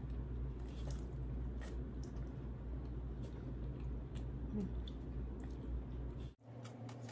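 Close-miked chewing and small wet mouth clicks of a person eating, over a steady low hum. The hum cuts off abruptly about six seconds in.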